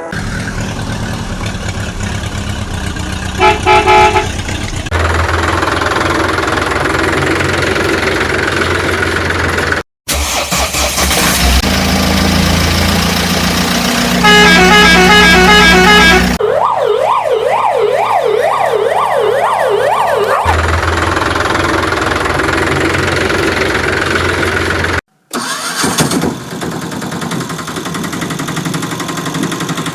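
A spliced run of vehicle sound effects: a heavy engine running, a horn honking briefly a few seconds in and again for longer around the middle, then a siren wailing up and down about twice a second for a few seconds. The sound cuts out abruptly twice where pieces are joined.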